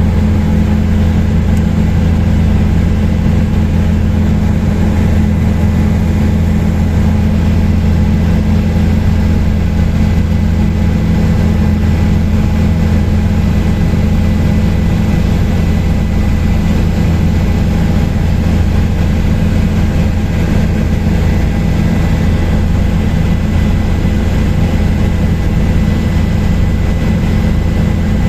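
Helicopter in flight, heard from inside the cabin: a loud, steady, deep drone of rotor and engine with a thin, steady high whine above it.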